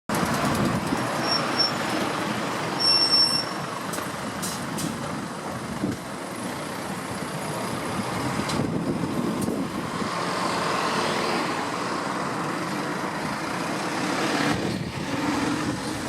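Okayama Electric Tramway 7200-series streetcar running among road traffic: a steady mix of vehicle and wheel noise with a faint steady hum. Two short high electronic beeps sound a little after a second in, then a brighter ringing tone around three seconds in.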